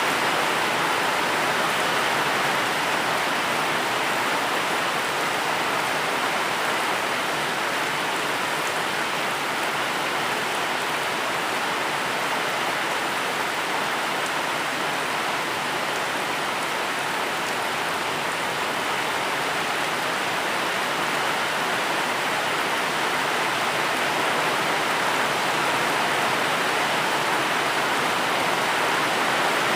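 Steady rain falling: an even, unbroken hiss with no distinct drops or thunder standing out.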